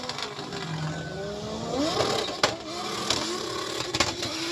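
Vehicle engines revving, their pitch gliding up and down, with two sharp clicks about halfway through and near the end.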